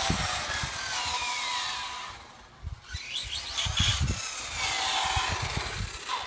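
Electric motor of a Tekno SCT410 1/10-scale 4wd short course truck whining as the truck speeds up and slows down, its pitch falling as it eases off about two seconds in, then climbing again as it pulls away, with low thumps throughout.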